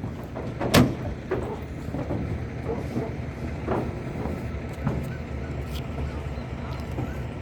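A vehicle engine idling with a steady low rumble, most likely the cattle truck. There is a sharp knock just under a second in and a few lighter knocks after it.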